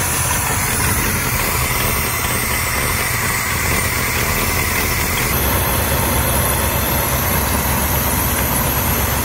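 Classic car's V8 engine idling steadily with the air cleaner removed.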